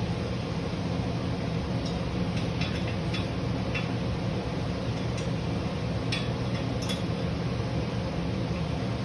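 A steady mechanical hum with a scattering of light metallic clicks and clinks in the middle few seconds, from hand tools at work on the motorcycle's parts.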